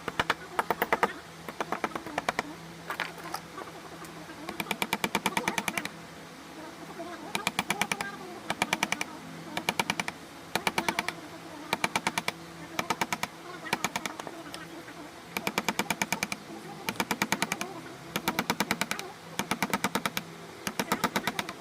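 Carving chisel driven into shisham wood by a mallet in rapid bursts of light taps, about nine or ten taps a second, each burst lasting about a second with short pauses between.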